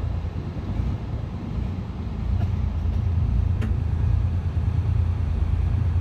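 Air-cooled Deutz diesel engine of a pulling tractor running steadily at idle, getting louder about two seconds in.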